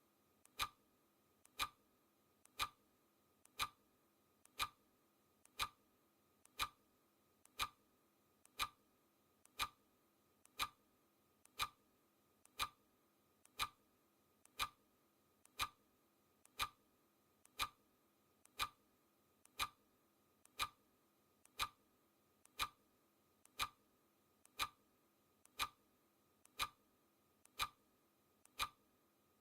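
Clock ticking sound effect: one crisp tick every second, steady, each with a faint click just before it.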